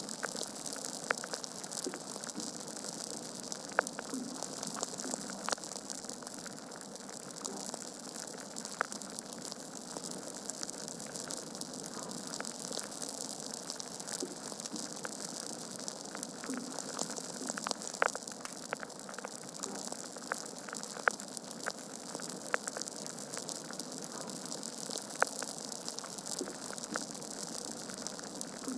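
Wood fire burning in a fireplace: a steady hiss with frequent irregular crackles and sharp pops from the logs, a few louder snaps among them.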